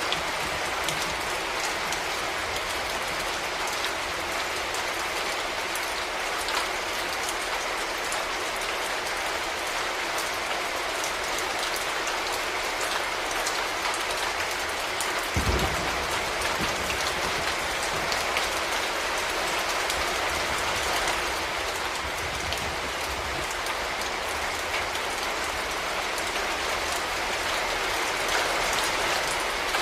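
Steady rain falling, an even patter with many small drop impacts, and a single brief low thump about halfway through.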